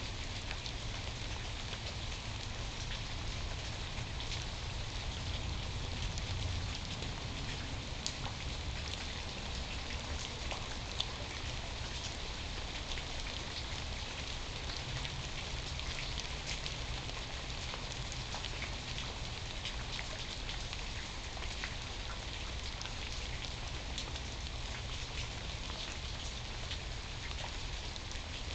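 Steady rain falling, with scattered individual drops ticking sharply close by, over a low steady rumble.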